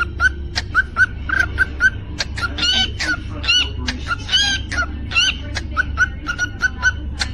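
Cockatiel chirping in quick short calls, about three or four a second, breaking into a run of louder arched whistles in the middle, with sharp clicks among the calls and a low steady hum underneath.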